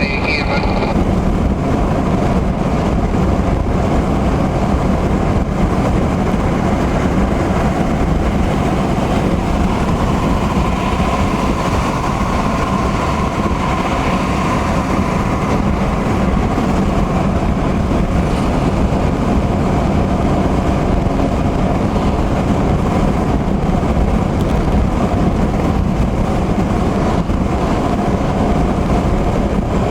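Steady driving noise inside a car on the highway in heavy rain: tyres on the wet road and rain on the car's body.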